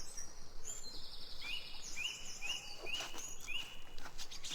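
Small birds calling: a short chirp repeated about twice a second, with a higher trilling call overlapping it, over a steady background hiss.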